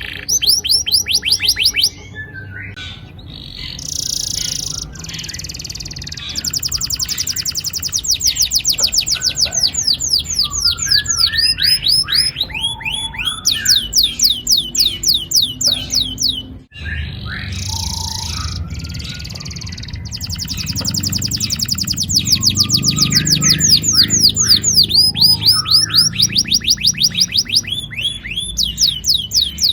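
Domestic canary singing long rolling trills: fast runs of repeated, downward-sweeping high notes in phrases separated by short pauses, with a brief break about two-thirds through.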